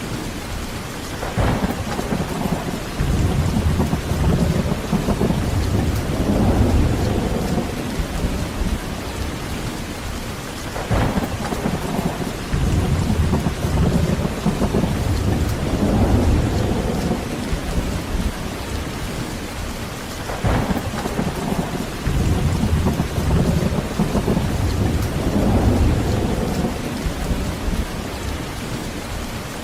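Heavy, steady rain with thunder rolling in three times, each roll opening with a brief sharper crack and then rumbling low for several seconds.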